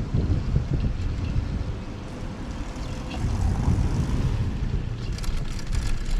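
Wind buffeting the microphone of a camera on a moving recumbent bike: a steady low rumble, with a few faint clicks near the end.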